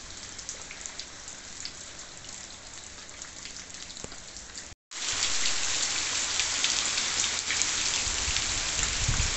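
Steady rain falling on leaves and ground, a dense hiss of many small drop patters. The sound drops out for an instant about halfway through, then the rain comes back louder and closer. A low rumble joins it near the end.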